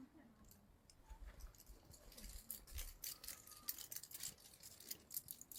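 Giant panda chewing, a faint run of crisp crunching clicks that grows busier about two seconds in.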